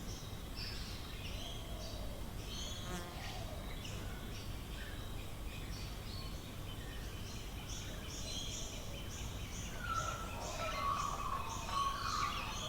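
Several Australian bush birds calling together, many short repeated high notes overlapping, with lower calls joining about ten seconds in so the chorus grows busier near the end.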